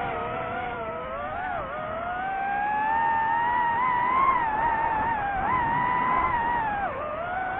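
DJI FPV drone's electric motors and propellers whining, the pitch gliding up and down with the throttle, dipping sharply about a second and a half in and again near the end.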